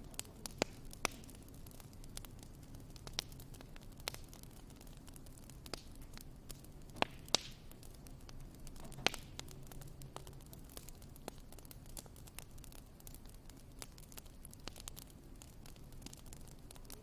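Wood fire crackling in a fireplace: irregular sharp pops and snaps over a low steady hiss.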